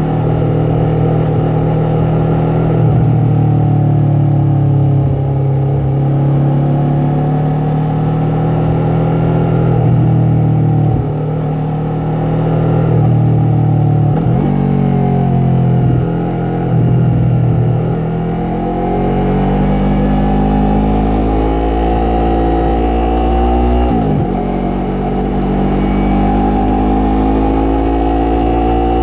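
Yamaha MT-03 parallel-twin motorcycle engine and exhaust under way. The revs rise and fall several times, with sharp breaks in pitch at the gear changes.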